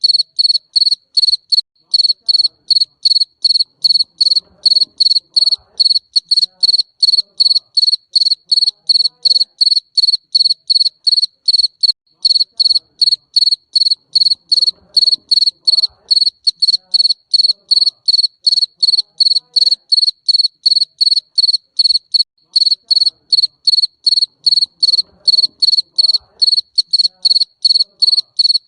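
Garden cricket (jangkrik kebun) singing: loud, high, evenly spaced chirps at about three a second, steady throughout.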